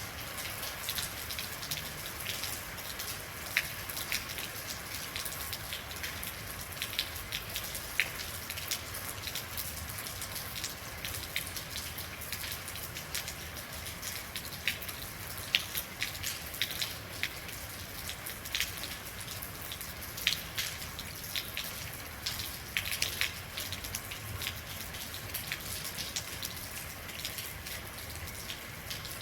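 Steady rain, with many individual drops ticking sharply on a hard surface and a few louder drops standing out.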